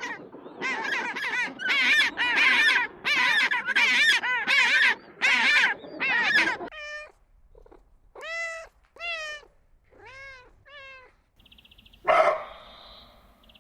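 A series of short animal calls, each rising and falling in pitch: about nine loud ones in quick succession over the first six seconds, then half a dozen fainter, more widely spaced ones. A brief louder call about twelve seconds in.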